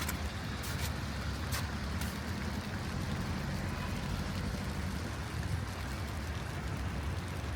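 Low rumble of a passing motor vehicle in city traffic, fading out about five seconds in, over a steady hiss, with a couple of footsteps in the first two seconds.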